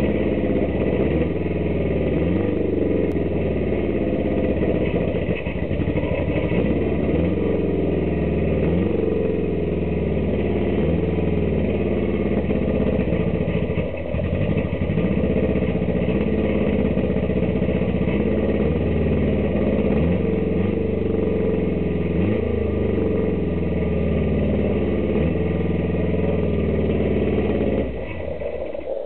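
NSU Sport Prinz's Typ 67 engine running on its first start, revved up again and again about every two seconds and falling back in between. The level drops a little near the end.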